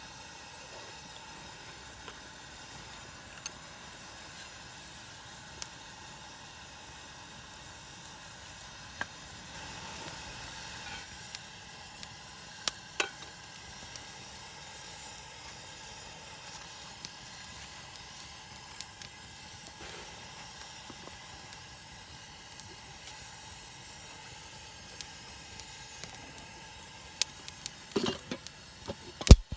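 Steady sizzling hiss of camp cooking, with scattered small crackles and clicks, a cluster of sharper clicks near the end and one loud click just before it ends.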